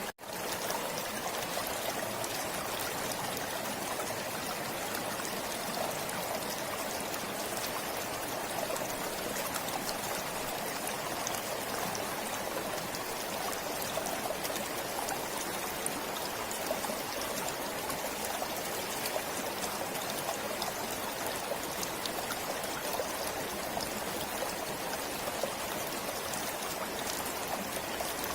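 Forest stream flowing in a steady, even rush of water, cutting out for an instant right at the start.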